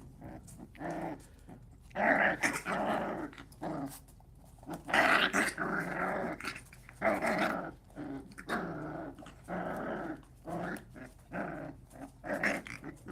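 Puppy growling in a run of short, rough growls during rough play, with brief pauses between them.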